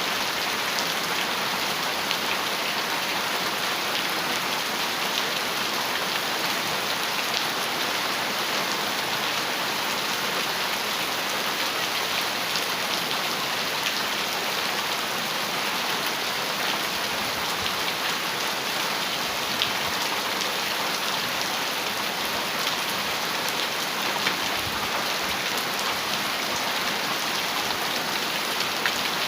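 Heavy rain falling steadily on a metal roof, a dense, even patter of drops.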